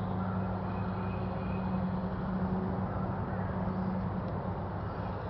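Steady low engine-like hum, such as distant vehicle traffic, over outdoor background noise, with a few faint short high chirps.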